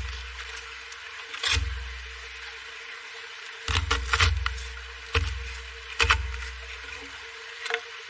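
Irregular heavy knocks of wood being struck, about seven in eight seconds, each with a deep, fading thud, over a faint steady hum.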